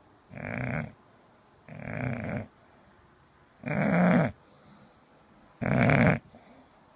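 English bulldog snoring loudly in its sleep: four snores about two seconds apart, each lasting well under a second, the last two louder than the first two.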